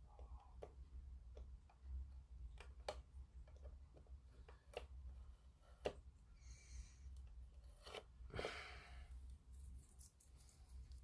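Faint scattered clicks and two short scratchy rustles, about six and eight seconds in, from hands handling a small plastic scale-model kit.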